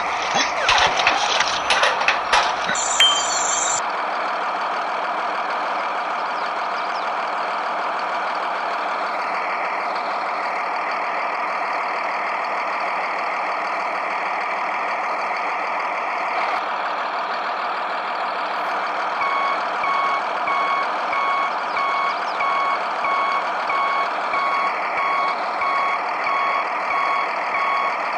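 A steady mechanical running noise, like a small vehicle's motor, with a few knocks in the first seconds. About two-thirds of the way in, a regularly repeating electronic beep starts, like a reversing alarm.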